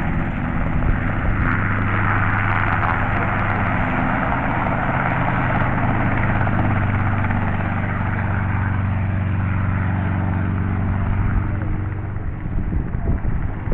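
Helicopter in flight: a steady drone of rotor and engine over a low hum, wavering a little near the end.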